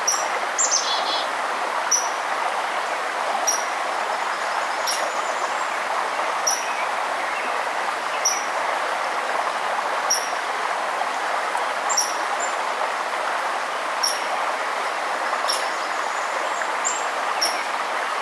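Steady rushing of a forest river, with a bird repeating a short, high chirp about every one and a half to two seconds.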